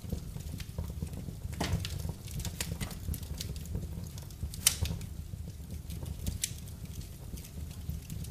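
Wood fire crackling in a fireplace: irregular sharp pops over a steady low rumble of the flames. The loudest pop comes about four and a half seconds in.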